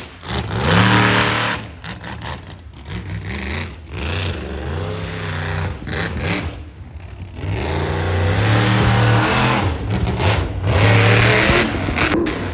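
Monster truck engine revving hard in repeated throttle blips, its pitch rising and falling with each one, with a longer sustained rev about eight to eleven seconds in.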